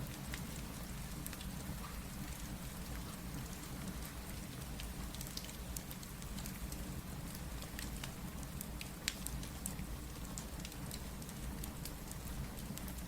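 Steady rain with a low rumble underneath, mixed with the irregular sharp crackles and pops of a wood fire, one louder pop about nine seconds in.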